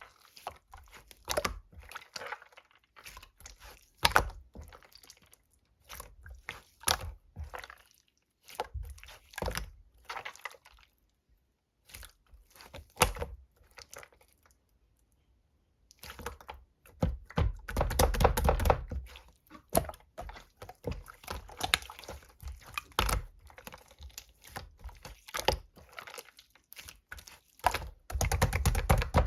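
Clear slime being squished and pressed by hand, giving irregular sticky clicks and small air-pocket pops. Denser crackling runs come in the second half and near the end, after a pause of a few seconds.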